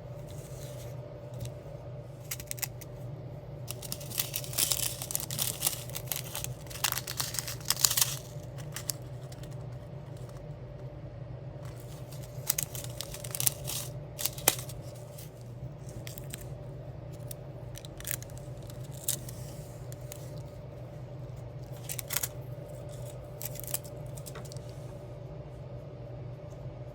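Diamond-art craft materials being handled: a burst of crinkling and rustling of plastic or paper sheets, then scattered light clicks and taps. A steady low hum runs underneath.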